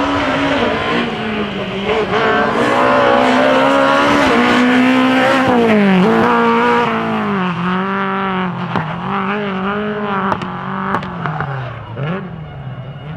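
Drift car's engine revving hard, its pitch swinging up and down again and again as the throttle is worked through the slide, with a few sharp cracks in the second half. It grows fainter near the end as the car moves away.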